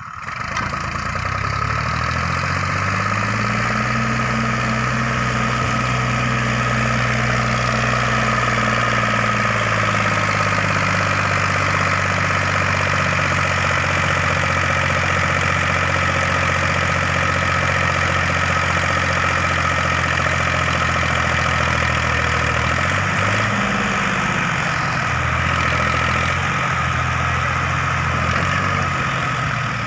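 Tractor diesel engine running steadily. Its pitch rises over the first few seconds, holds, then dips and changes again a few seconds before the end.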